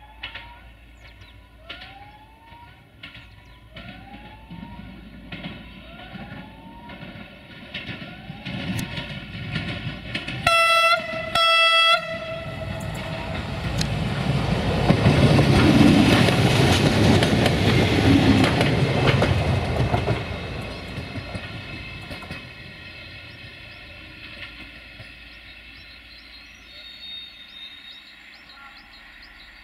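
A Bombardier Talent 643 diesel multiple unit sounds two short horn blasts, then passes close by with its diesel engines running and wheels rumbling over the rails, the noise swelling and then fading away. Before the horn, a rising chirp repeats about once a second.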